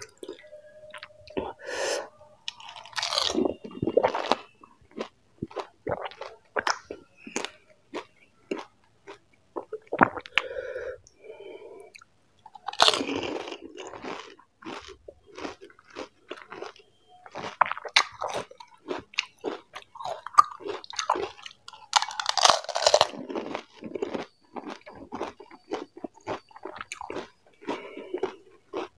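Close-miked crunching and wet chewing of pani puri: hollow fried puri shells, filled with spicy green chilli water, cracking between the teeth in many short, sharp crunches. Three longer, louder noisy stretches are spread through it.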